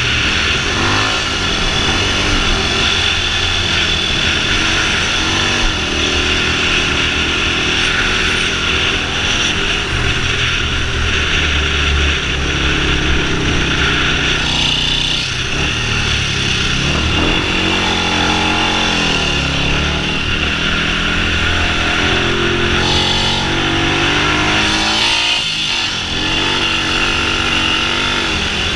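Yamaha WR450F supermoto's single-cylinder four-stroke engine at full effort on a hillclimb run, its pitch climbing and dropping repeatedly through gear changes and braking for corners. Heavy wind rush runs under the engine throughout.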